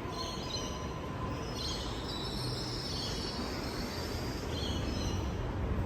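Train running on nearby track: a steady low rumble with high wheel squeal that comes and goes in several patches.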